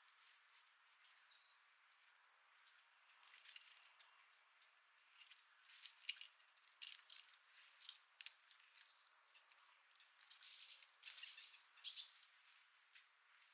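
Chickadees and nuthatches at a bird feeder: scattered short, high chirps and call notes mixed with sharp little ticks. They come sparsely at first and grow busier in the second half.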